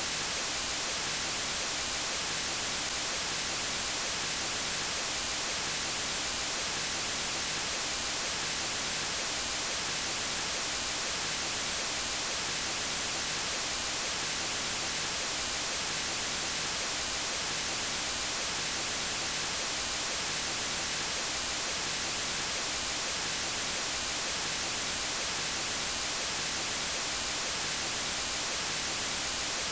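Steady white noise: an even, unbroken hiss that is brightest in the high end and does not change.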